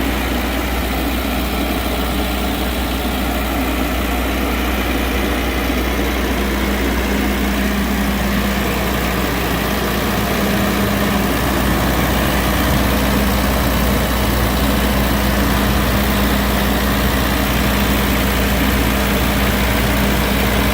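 Multiquip MQ70 56 kW portable diesel generator running steadily with a constant low drone, growing a little louder about halfway through.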